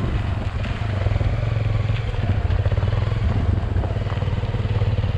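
Dirt bike engine running steadily under way, a dense, even stream of firing pulses.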